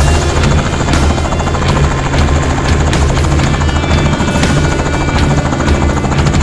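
Helicopter running in flight, a loud steady low drone with a regular chop, mixed with background music.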